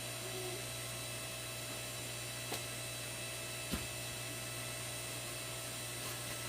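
Steady electrical hum, with two faint clicks about two and a half and nearly four seconds in.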